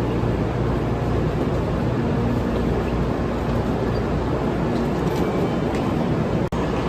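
Steady rumble and rushing noise of a Shinkansen bullet train running, heard from inside the passenger car. It drops out for an instant near the end.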